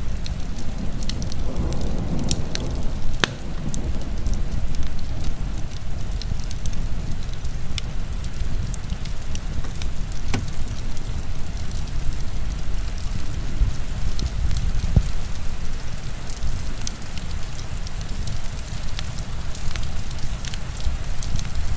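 Wood fire crackling, with sharp pops and snaps scattered irregularly throughout, over the steady, dense hiss and low rumble of heavy rain.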